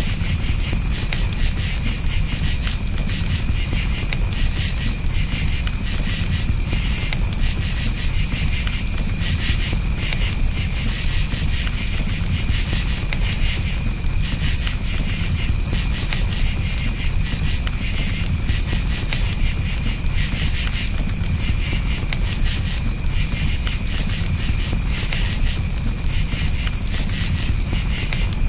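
Crickets chirping in a steady, continuous high trill over a crackling campfire, with a constant low rumble underneath.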